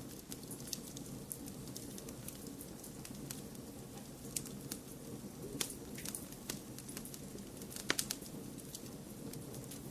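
Wood fire crackling in a fireplace: irregular sharp pops and snaps over a steady low rumble and hiss, with the loudest snaps about halfway through and again about two seconds before the end.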